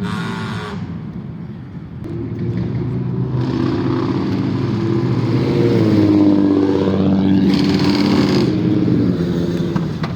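Car engines and exhausts running as cars drive off, with two short, loud revs: one at the start and one near the end.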